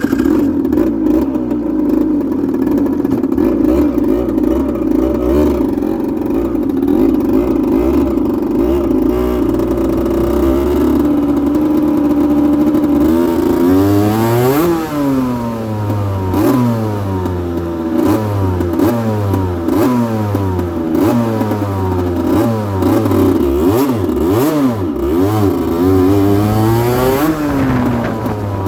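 2008 Aprilia RS125's single-cylinder two-stroke engine running steadily, then revved up and let fall back again and again from about halfway through.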